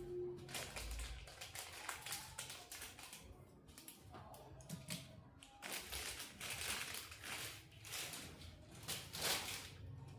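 Irregular light taps, clicks and scrapes from handling TV parts and tools, busier in two stretches in the second half.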